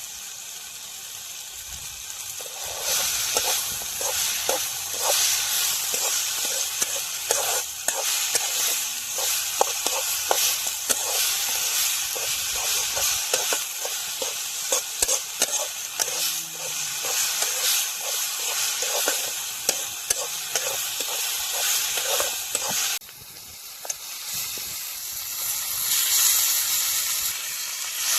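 Pork curry sizzling and frying in a pan while being stirred, with frequent clicks and scrapes of the stirring utensil against the pan. The sizzle starts up loudly about three seconds in, drops suddenly near the end, then builds again.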